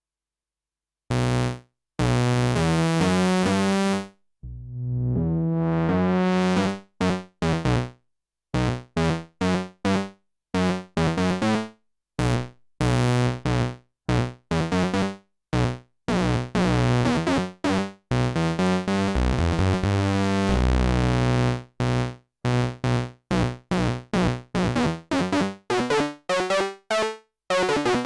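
Sequential OB-6 analog polysynth playing dry, with no effects, a patch using oscillator sync and cross-modulation, in a run of short staccato notes and longer held ones. About five seconds in, the bright upper overtones open up in a rising sweep. Near the end, the overtones bend up and down.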